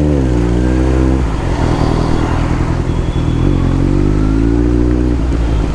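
Kawasaki Z900 inline-four motorcycle engine revving up and easing off twice while riding, over a steady hiss of wind and wet road.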